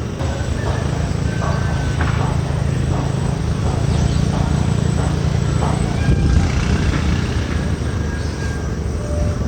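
Strong wind rumbling on the microphone, with a run of short, sharp calls or clicks about twice a second over it.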